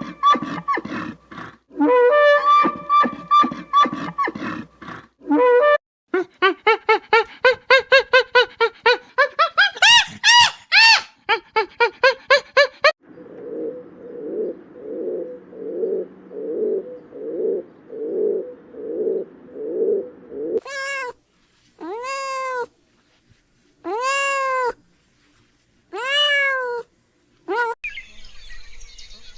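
Several animal calls cut one after another. In the second half, a cat meows five times, each meow rising and then falling in pitch.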